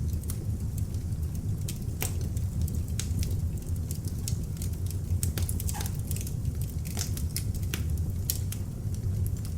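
Beech-wood log fire burning in an open fireplace: a steady low rumble of flame with frequent, irregular sharp crackles and pops of the burning wood.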